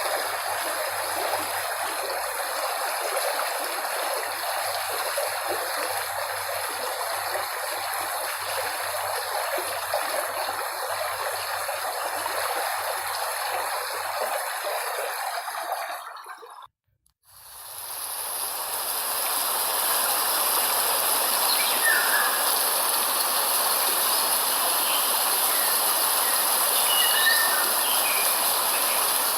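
Running stream water rushing evenly for about sixteen seconds, then fading out to a brief silence. A steady high-pitched cricket chorus fades in after it, with a few short chirps over it near the end.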